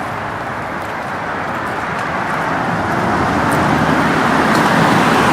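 Road vehicle noise: a steady rushing that swells over a few seconds, like a car drawing near.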